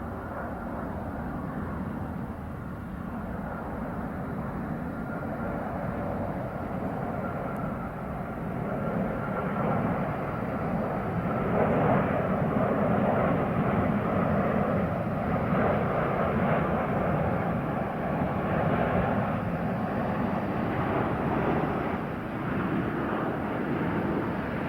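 Airliner engines passing, a steady rushing noise that grows louder about ten seconds in and stays loud.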